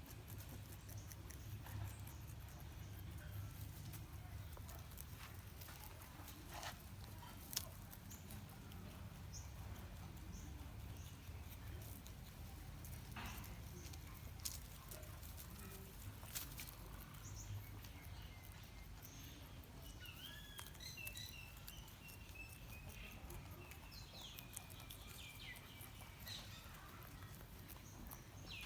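Rabbits nibbling and chewing food: faint, irregular small crunching clicks. Birds chirp in the background in the second half.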